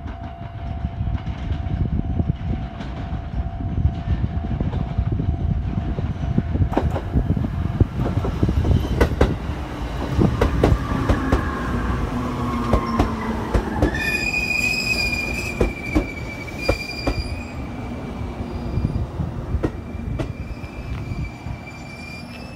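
JR Kyushu 787 series electric train pulling into the station: a low rumble with wheels clicking over the rail joints and a whine that falls in pitch as it slows. From about two-thirds in comes a steady high squeal as it brakes.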